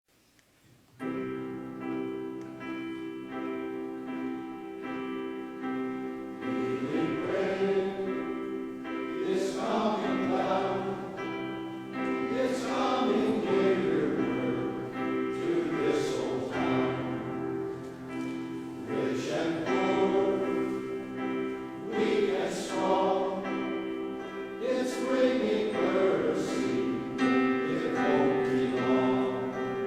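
Male chorus singing in harmony over sustained accompaniment chords, which begin about a second in.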